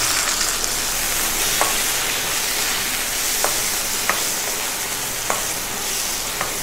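Diced tomatoes and onions sizzling in hot oil in a kadai as a wooden spatula stirs them: a steady frying hiss with a few light knocks of the spatula against the pan.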